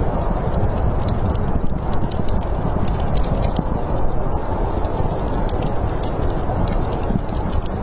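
Steady snowstorm wind with a deep rumble, overlaid with the frequent, irregular sharp crackles and pops of a burning wood fire.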